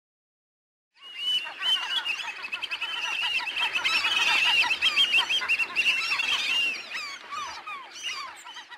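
A large flock of waterbirds calling together, a dense chorus of many short overlapping calls that starts suddenly about a second in and thins out near the end.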